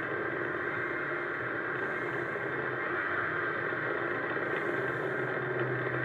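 Snowmobile engine running steadily under a constant hiss, with no change in speed.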